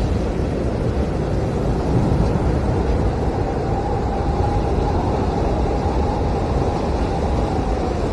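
Blizzard wind blowing hard and steadily, a deep rushing rumble with a faint high whistling howl coming in about halfway through.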